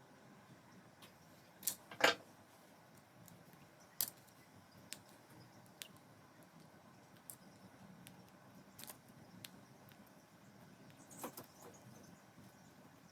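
Scattered faint clicks and knocks of tools and small parts being handled on a workbench, the loudest pair about two seconds in.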